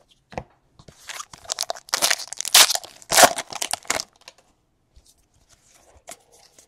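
A 2017-18 Donruss Basketball card pack's wrapper being torn open and crinkled: a dense run of crackling rips for about three seconds, then a few faint rustles.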